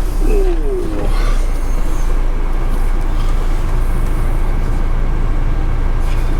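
Diesel engine of a car-transporter lorry running, heard as a steady low rumble.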